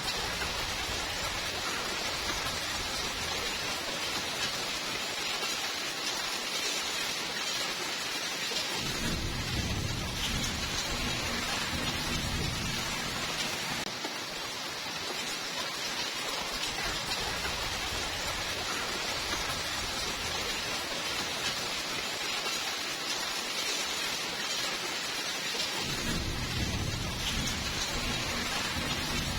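Steady rain hiss, with a low roll of thunder about nine seconds in that lasts some five seconds, and another that starts near the end.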